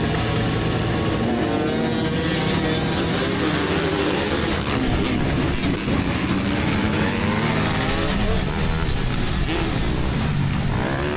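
2024 GasGas EX300 two-stroke dirt bike engine revving, its pitch rising and falling again and again.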